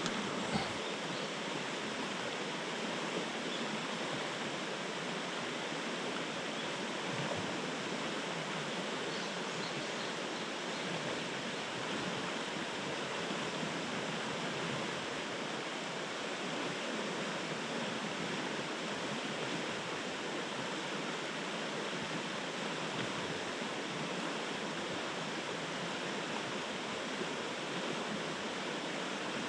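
Steady rush of a mountain stream's flowing water, with a few faint clicks in the first second.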